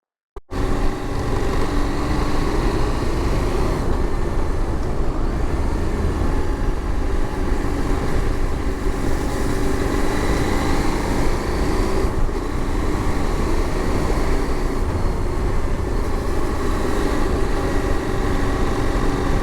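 Motorcycle engine running at a steady pace on the move, with low wind rumble, starting abruptly after a brief silence.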